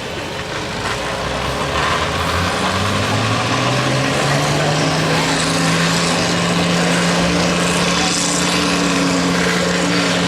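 Engine of a modified pulling lawn tractor getting louder as it drives up. Its pitch rises steadily for about five seconds, then holds steady.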